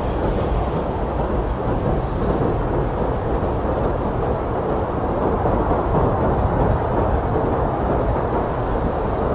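Blizzard wind blowing hard and steadily: a dense, deep rushing noise that swells and eases only slightly, with no gusts standing out.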